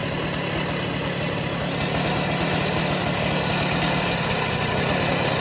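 Husqvarna 395XP two-stroke chainsaw running steadily at idle.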